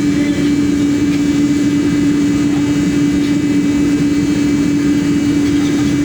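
Engine running steadily, a constant drone with one strong low hum held at a single pitch.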